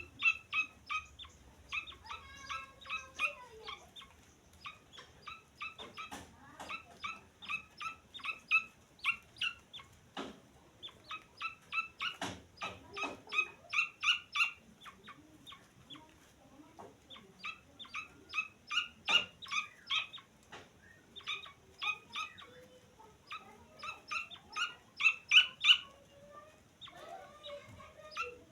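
Grey francolin (teetar) chick peeping: short, high calls repeated several times a second in runs, with brief pauses between the runs. A few sharp knocks are heard among them.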